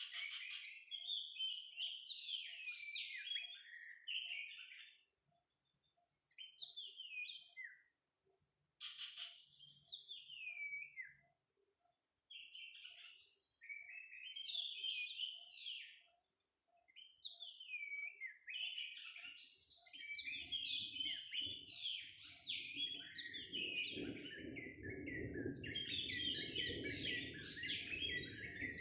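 Oriental magpie-robin singing a varied, almost unbroken song of whistled and chattering phrases, with a thin steady high tone underneath. From about two-thirds of the way through, a low rustling noise joins in.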